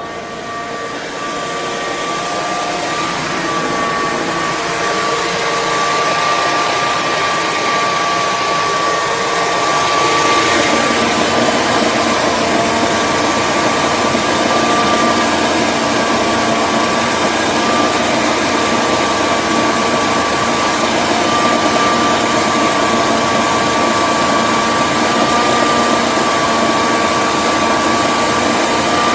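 Generac Guardian home standby generator running with a steady hum and a constant whine. It grows louder over roughly the first ten seconds, then holds steady.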